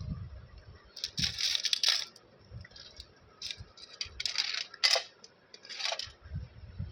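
Candy and its packaging handled in short bursts of clattering and rustling, about five times, with quiet gaps between.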